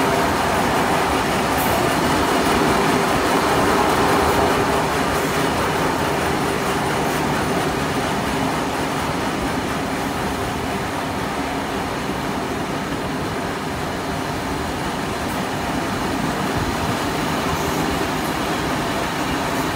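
Passenger carriages of a steam-hauled train running along the track, a steady rumble of wheels on rails heard from an open carriage window.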